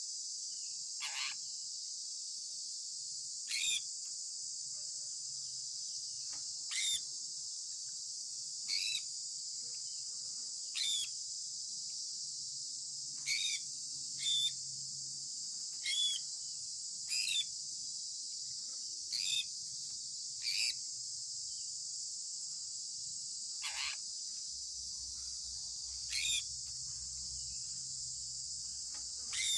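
Short bird chirps, each a quick downward sweep, about fourteen of them at irregular intervals of one to three seconds, over a constant high-pitched insect drone like crickets.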